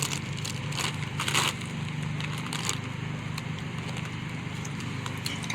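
Crunching and chewing of nacho cheese Doritos tortilla chips, with a few sharp crunches in the first three seconds, the loudest about a second and a half in, over a steady low hum.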